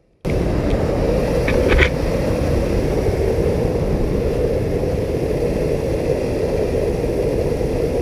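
Steady, loud rumbling noise on a body-worn camera's microphone, typical of wind buffeting and movement, with a few faint clicks just under two seconds in.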